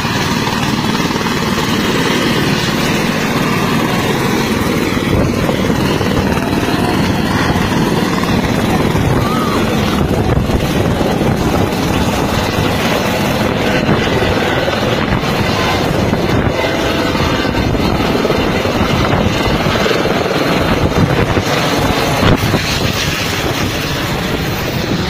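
Helicopter running, its rotor chop and engine noise loud and steady.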